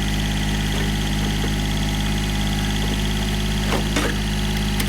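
Small tractor's engine running steadily under load while lifting, with two short knocks about four seconds in.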